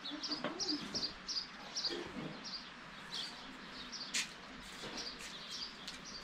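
Small birds chirping: many short high calls, several a second, with a single sharp click about four seconds in.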